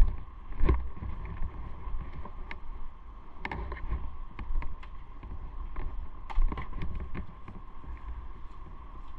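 Motorcycle riding noise: low wind buffeting on the microphone over the running bike, with a steady hum and scattered sharp clicks and knocks.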